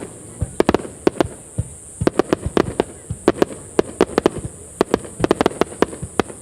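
Aerial fireworks bursting: a rapid, irregular run of sharp bangs and crackling reports, often several a second.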